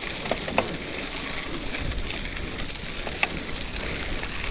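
Steady rush of wind and rolling noise while riding a bicycle, with a few sharp clicks and rattles from the bike.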